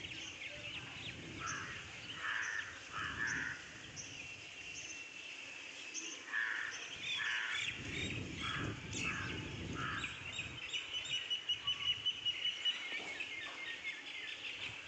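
Birds calling outdoors over a low background hiss: a series of short chirps repeated about once or twice a second, then a quick, pulsing trill a few seconds before the end.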